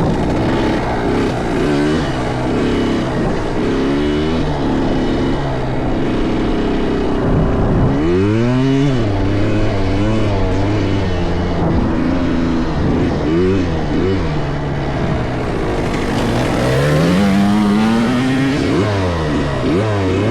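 Motocross dirt bike engines revving up and dropping back as they ride the track, with more than one engine overlapping. A sharp run up in pitch comes about eight seconds in, and another builds near the end.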